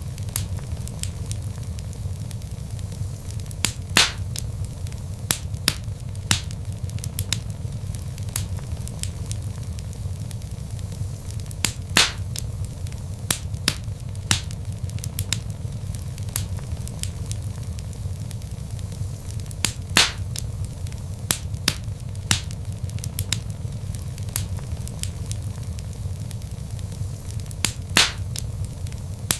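Wood logs burning in a fireplace: a steady low rumble of flame with constant small crackles, and a few louder pops about every eight seconds.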